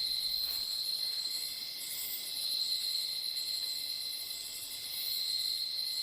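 Nocturnal rainforest insect chorus: a steady, high-pitched trilling that carries on without a break.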